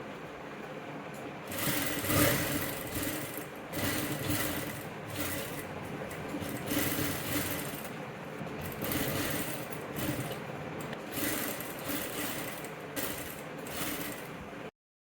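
Sewing machine stitching in several runs of varying speed, starting about a second and a half in, then cutting off abruptly near the end.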